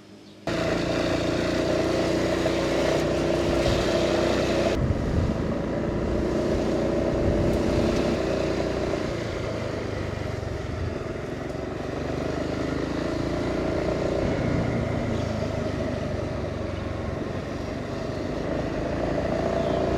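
Honda ADV350 scooter's single-cylinder engine running on the move, with road and wind noise; the engine note drifts up and down a little with speed. The sound starts abruptly about half a second in.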